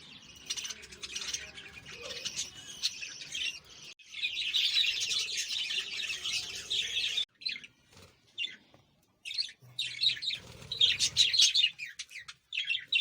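Small birds chirping in quick, dense twitters, busiest and loudest about four to seven seconds in, then falling quiet for a couple of seconds before the chirping starts again.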